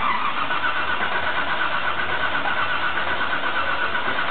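Starter motor cranking a supercharged 347 small-block Ford V8 with dual Holley carburettors in a steady rhythm, on its first start attempt, before it fires.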